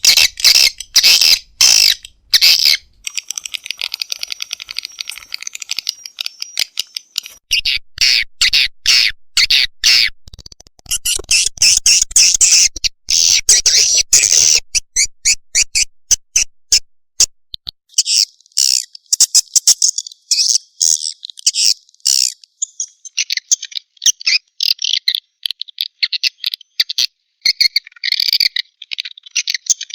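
Edible-nest swiftlet lure recording: dense, rapid, high-pitched chirping and clicking of swiftlets mixed with chick calls, coming in bursts with brief gaps.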